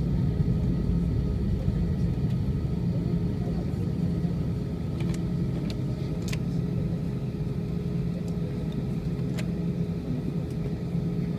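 Airbus A320 jet engines running, a steady low rumble with a few faint steady tones over it, easing slightly in level.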